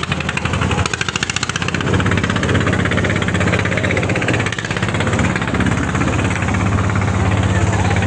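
An engine running steadily with a rapid, even knocking beat and a deep hum that grows stronger about two seconds in.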